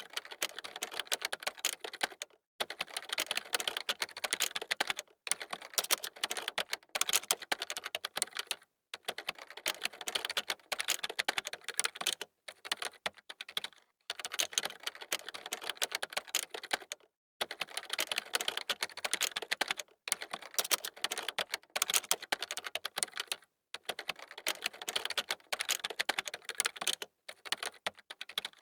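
Fast typing on a computer keyboard: rapid runs of key clicks lasting a second or more each, broken by brief pauses.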